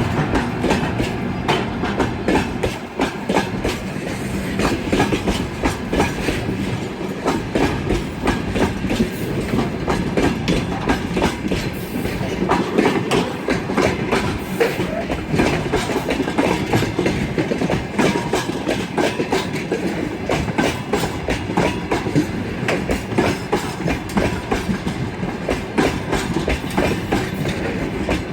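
Freight train wagons rolling past, wheels clattering over rail joints in a continuous clickety-clack over a steady rumble.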